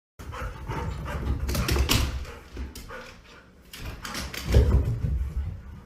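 A dog vocalizing, barking and whimpering, with two louder bouts, one about two seconds in and one near the end.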